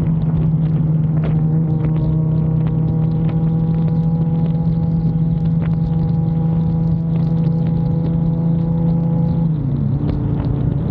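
Motorcycle engine running at a steady cruising speed, with road and wind noise. About nine and a half seconds in, its pitch drops and settles lower as the revs come down.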